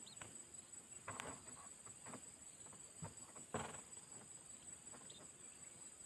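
Steady high-pitched insect drone of crickets or cicadas, with a few soft rustles and knocks about a second in and again near the middle, and a faint short chirp or two.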